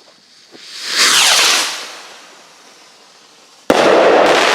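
Fireworks going off: a whooshing burst swells and fades in the first two seconds, then a sudden sharp bang near the end sets off a long, loud burst of noise that slowly dies away.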